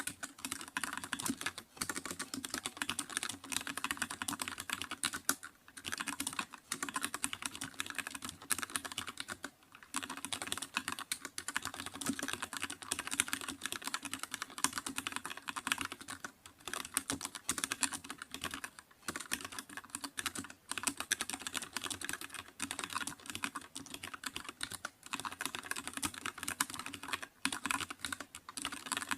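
Fast, continuous typing on a computer keyboard, rapid clicking keystrokes with a few short pauses.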